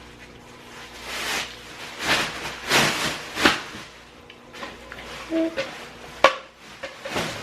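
Takeout food packaging and tableware being handled: several short rustling, scraping sounds, a brief squeak, then one sharp knock a little after six seconds in.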